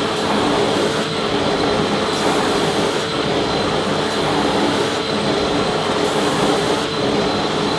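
Vacuum cleaner running steadily: a constant rush of air with a steady motor hum and a thin high whine.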